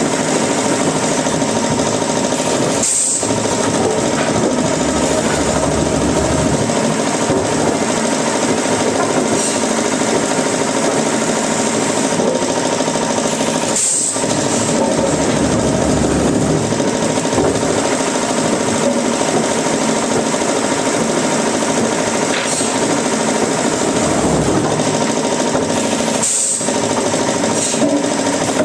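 Wood-processing machinery running steadily with a dense mechanical rattle. It cuts out for an instant three times: about three seconds in, near the middle and near the end.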